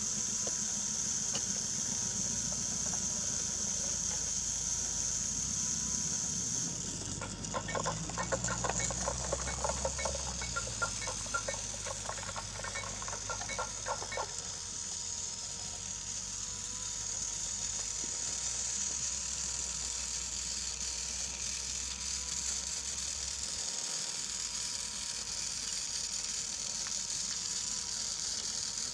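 Battery-powered Brio toy train running on wooden track, its small motor whirring steadily. For several seconds near the middle, a quick run of clicks and clatter sounds over a low rumble.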